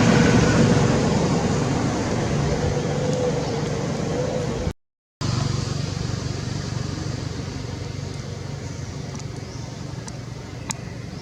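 Steady low mechanical rumble that slowly fades, broken by a sudden dropout to silence for about half a second a little under five seconds in.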